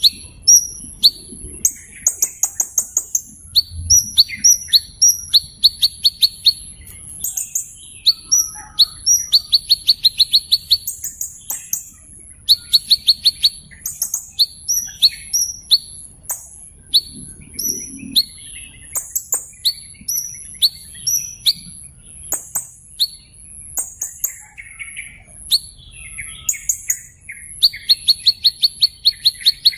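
Small bird giving rapid, sharp high-pitched chirps and short fast trills of evenly repeated notes, over a steady high whine.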